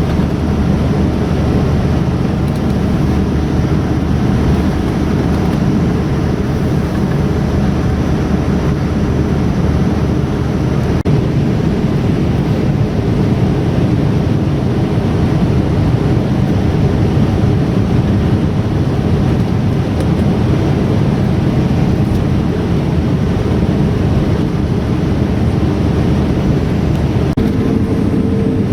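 Steady cabin noise inside a Boeing 787 airliner, the engines and air conditioning running evenly during the taxi after landing. A steady hum joins in about a second before the end.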